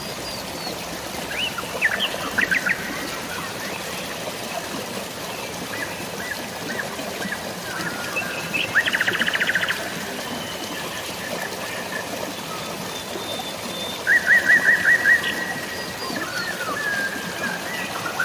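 Birds singing over a steady hiss of drizzling rain and running water: a cluster of quick notes about two seconds in, a fast trill near the middle, and a rapid run of repeated notes near the end.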